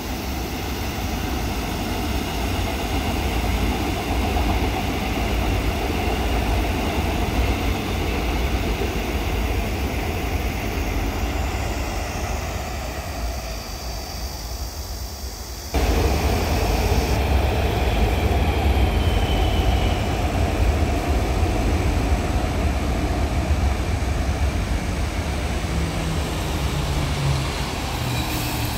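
Seoul Subway Line 4 electric train running across an elevated bridge, mixed with road traffic and a low wind rumble on the microphone. The sound changes abruptly about halfway through.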